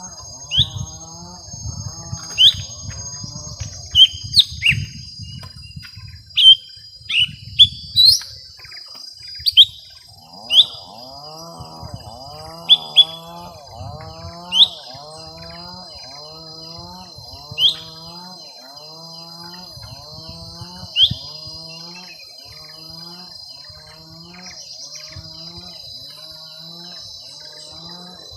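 Lesser green leafbirds (cucak ijo mini) calling in a fight: loud, sharp notes that slur downward, coming thick and fast at first and then every few seconds. Steady high-pitched tones and a lower, evenly repeating call run under them.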